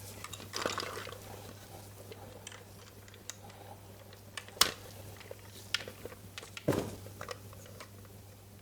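Scattered handling noises of a plastic toy and its packaging: a short rustle, then a few sharp clicks and one louder knock, over a faint steady low hum.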